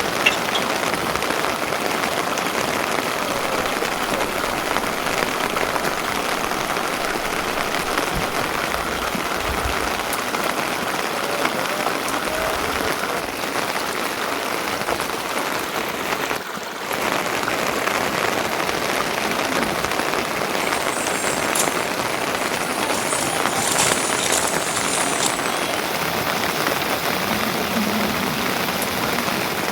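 Steady rain falling, an even, dense patter that briefly dips just past halfway.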